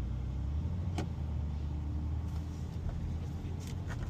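BMW X6M's twin-turbo V8 heard from inside the cabin, running quietly as a low, steady hum with the Valvetronic Designs exhaust valves closed. A single click about a second in.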